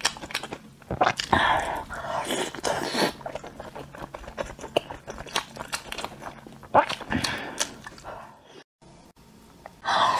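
Close-up mouth sounds of a person biting and chewing sauce-coated fried cubes from a skewer: wet smacking with many small crunchy clicks. There is a brief silence near the end.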